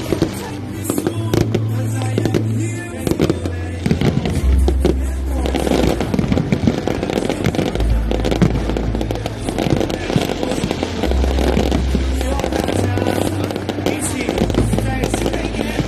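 Aerial fireworks bursting in quick succession, a dense run of bangs and crackles, over loud music with a deep bass line.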